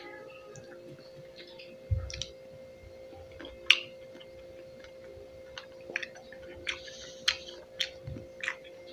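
Close-up eating of fresh pineapple chunks: irregular wet mouth clicks and smacks from chewing, more frequent in the second half, over a steady faint hum.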